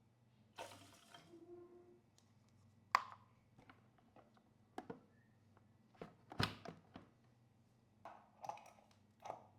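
Irregular kitchen knocks and clicks, as of utensils and dishes being handled on a counter, the loudest about three and six and a half seconds in, over a faint steady low hum.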